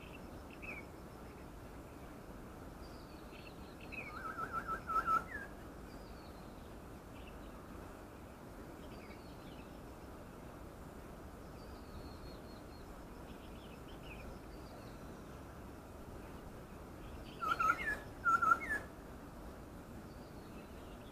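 Wild birds calling among trees: two loud bouts of quick repeated notes, about four seconds in and again later, over scattered fainter chirps and a steady background hiss.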